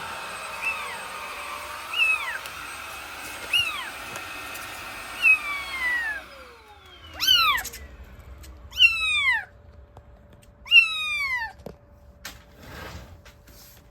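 Cat meowing over a vacuum cleaner's motor, with a short meow about every one and a half seconds. About six seconds in, the vacuum shuts off and its motor winds down in falling pitch. Three louder, longer meows follow.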